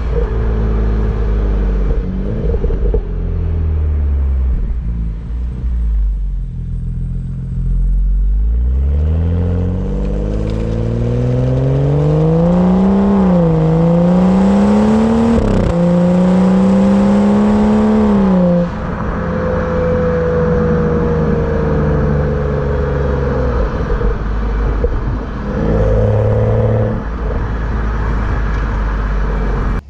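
BMW F30 335i's turbocharged inline-six exhaust heard while driving. The engine climbs in revs, drops briefly at a gear shift and climbs again, holds for a few seconds, then drops off when the throttle is lifted and settles to a steady cruise.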